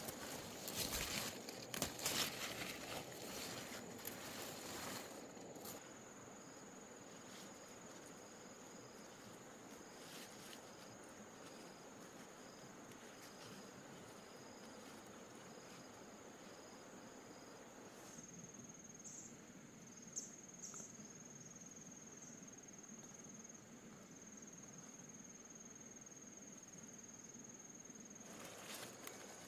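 Insects trilling: a steady high-pitched drone, with a second insect chirping in an even pulse for the first half. Rustling and light knocks in the first few seconds.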